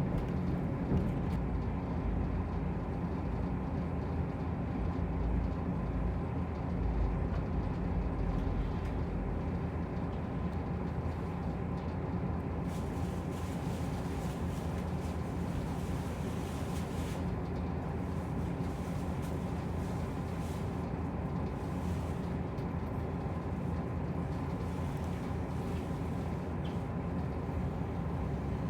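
Running noise inside a diesel railcar under way: a steady engine drone over the rumble of the wheels on the track.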